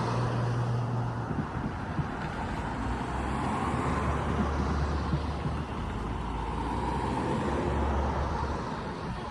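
Diesel-electric freight locomotives running past with a low, steady engine drone that drops in pitch about a second and a half in, over a heavy rumble of wheels on rail; it eases off near the end.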